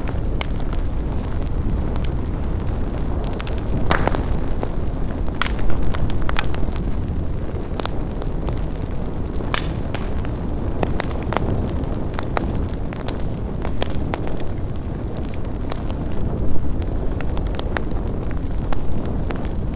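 Fire burning: a steady low roar with irregular sharp crackles and pops.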